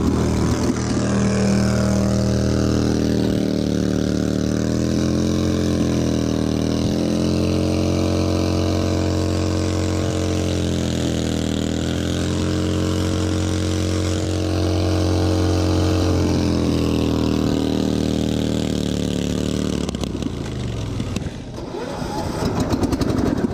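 Racing lawn tractor engine running under throttle, its pitch dipping and rising again twice. About twenty seconds in, the steady engine note breaks up into a rougher, noisier sound.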